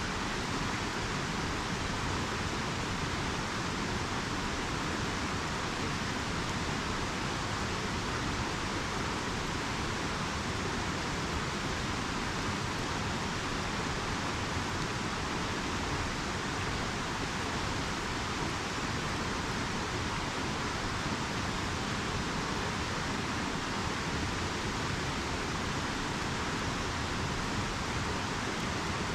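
River water flowing, a steady even wash of noise with no distinct clicks or changes.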